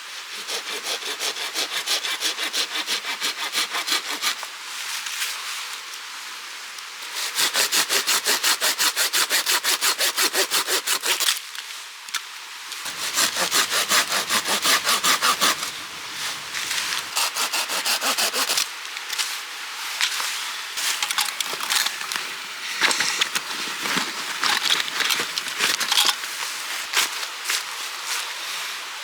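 Hand saw cutting wood in quick, rhythmic back-and-forth strokes. The sawing comes in several runs with short pauses between them.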